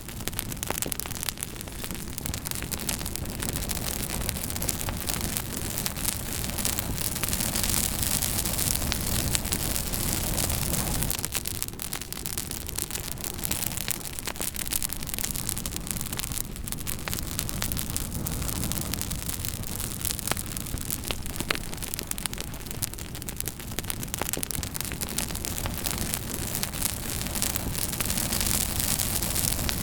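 Campfire crackling: many small sharp pops and snaps over a steady rushing hiss.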